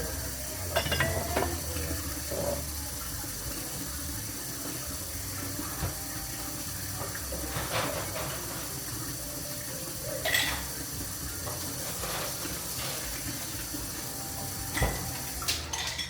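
Kitchen work at a sink: a steady hiss of running tap water with scattered knocks and clinks of dishes, the loudest about a second in, near the middle and near the end.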